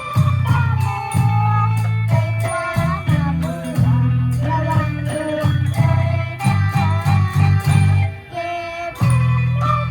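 Isan pong lang folk-band music: a plucked-string melody over a steady, heavy bass line and regular percussion, with a voice singing along.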